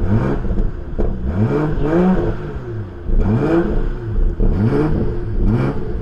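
BMW M440i's turbocharged straight-six revved in a series of quick throttle blips through its modified exhaust, the pitch rising and falling with each blip, about one a second.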